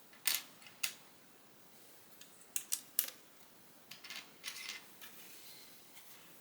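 Plastic Lego bricks being handled and snapped together: several sharp single clicks in the first three seconds, then a short rattly clatter of pieces about four seconds in.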